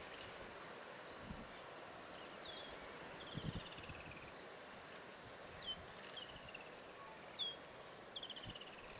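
A bird calling repeatedly, about every two to three seconds: a short sharp high note, then a quick run of notes falling in pitch. A steady hiss of background noise runs under it, with a few soft low thumps, the loudest about three and a half seconds in.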